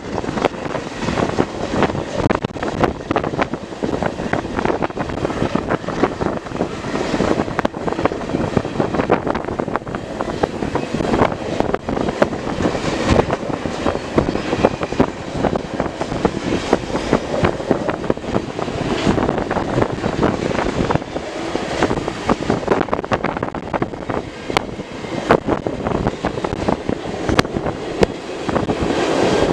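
Freight cars of a CN manifest train rolling past: a steady loud rumble and rattle of wheels on rail, with many sharp clicks and knocks throughout.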